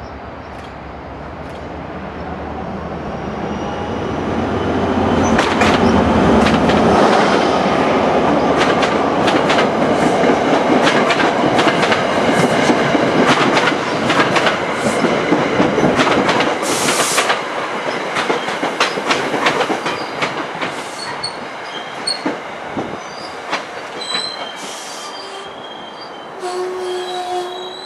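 NJ Transit diesel-hauled passenger train passing close by. It grows louder over the first few seconds, then there is a long stretch of wheels clicking over rail joints. Thin high wheel squeals come near the end as it fades.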